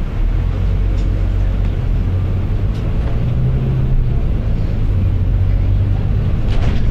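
Volvo B9TL double-decker bus's diesel engine running steadily under way, a low drone heard inside the bus from the top deck.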